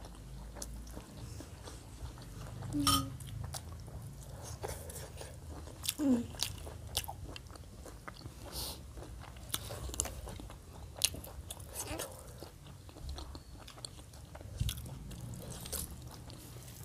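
Close-up chewing and mouth smacking of people eating rice and curry by hand, with scattered sharp clicks of lips and tongue. Two brief hums come about three and six seconds in.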